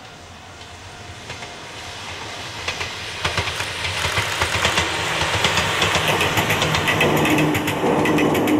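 An Ohmi Railway 800-series electric train (set 807F) approaches and passes, growing louder. From about a third of the way in, the clickety-clack of its wheels over the rail joints is heard. A steady low hum joins near the end.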